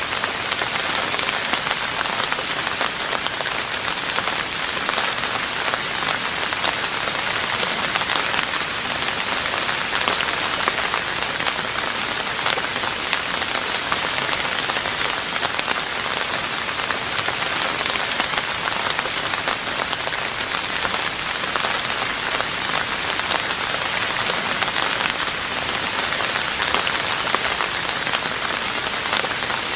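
Steady rain falling on a roof, a dense even hiss of countless drops striking the surface, with individual drop clicks scattered through it.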